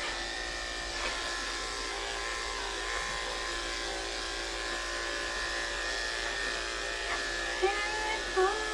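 Andis electric pet clippers running with a steady buzz as they shave through a matted cat's coat. Near the end a voice rises and falls over the hum.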